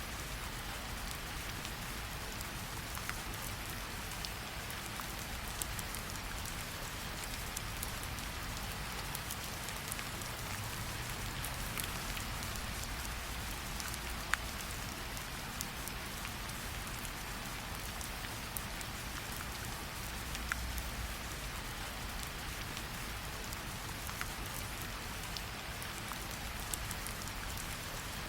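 Steady rain falling, with sparse sharp pops scattered through it, the loudest about fourteen seconds in.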